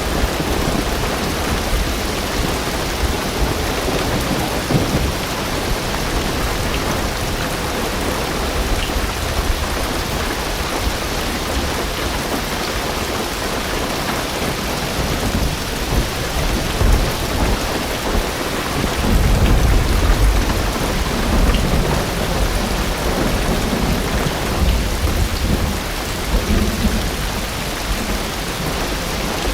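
Heavy rain drumming on a car roof and windows, heard from inside the car. A deep rumble of distant thunder swells about two-thirds of the way through, with a smaller one near the end.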